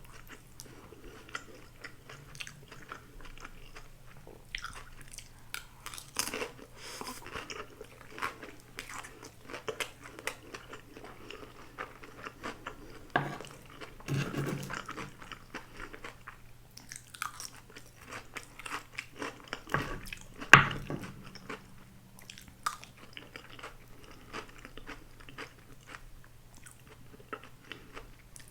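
Close-miked chewing and biting of a grilled eel rice bowl: irregular wet mouth clicks and crunches, with one sharp, louder crunch about two-thirds of the way through.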